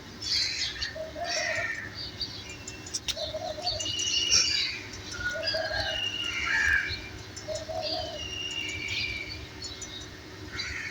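Birds chirping and calling: many short high chirps and whistles, with a lower call repeated about every two seconds.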